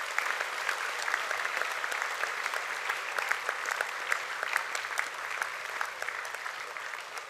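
An audience clapping in sustained applause, the claps slowly thinning toward the end.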